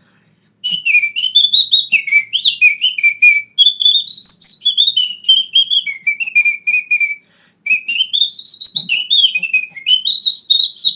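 A man whistling a little tune with a finger in his mouth. The high whistle flutters rapidly and steps up and down in pitch, in two phrases with a brief break about seven seconds in.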